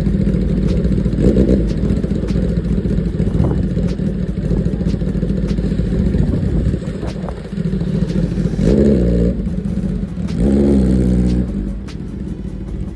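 Motorcycle engine running steadily, with the revs climbing briefly twice in the second half.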